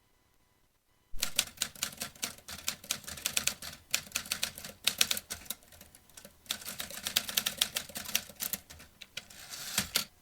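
Vintage manual typewriter being typed on: rapid runs of key strikes starting about a second in, with a brief pause midway.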